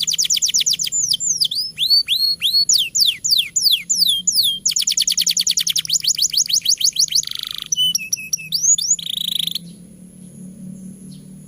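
Domestic canary in full song: a fast trill of rapid sweeping notes, then a run of slower descending whistles, then another long fast trill and a few chirps, stopping about nine and a half seconds in.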